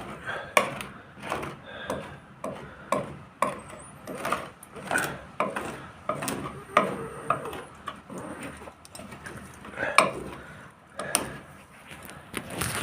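Irregular short knocks and scrapes, about one or two a second, from hand work with tools and materials.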